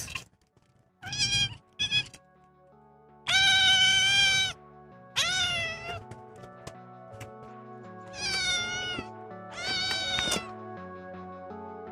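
Domestic cat meowing six times: two short meows, then four longer, drawn-out ones, several falling in pitch at the end, over background music.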